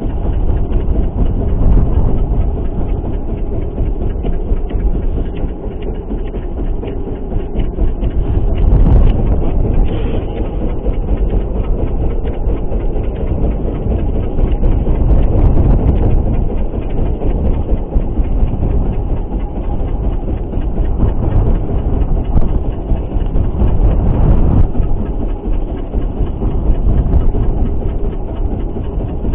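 Steady, loud low rumble of a small fishing boat on rough water, its engine drone mixed with wind buffeting the microphone. The rumble swells and eases without a break.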